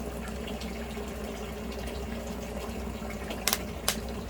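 Wood fire burning under an iron cauldron as it is being lit: a steady rushing noise with a low hum, broken by two sharp crackling pops a little after three seconds in.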